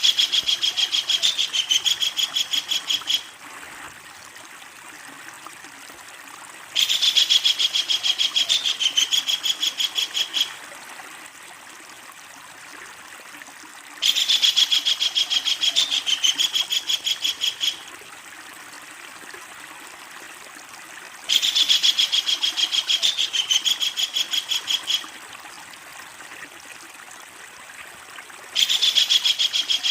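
Kingfisher giving its long, loud rattling call, a rapid run of many sharp notes lasting about three and a half seconds, repeated four times with pauses between and a fifth starting near the end, over a steady hiss of running water.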